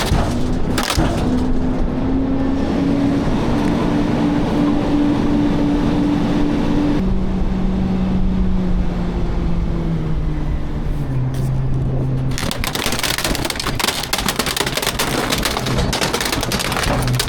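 Garbage truck engine held at raised revs, its pitch creeping up, then dropping back in steps to a lower steady hum about halfway through. Loud crunching and rattling starts about two-thirds of the way in, and the engine keeps running under it.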